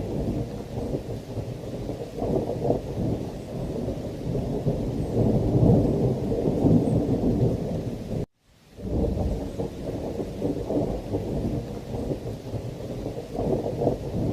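Thunderstorm ambience: a continuous deep rumble of rolling thunder over heavy rain, swelling louder about halfway through. Just past the middle it cuts out suddenly for about half a second, then resumes.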